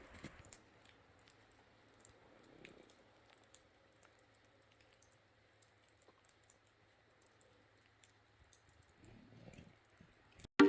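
Faint, scattered clicks and ticks over a quiet background.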